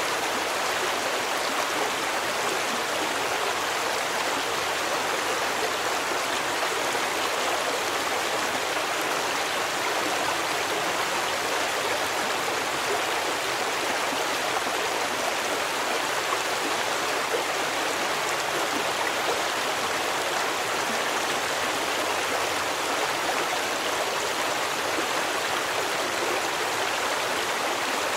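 Stream water running over rocks in a steady, even rush, with no breaks or changes.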